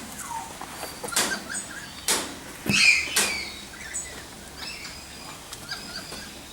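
Captive birds calling with short chirps, one louder call about three seconds in, mixed with a few sharp clicks or knocks.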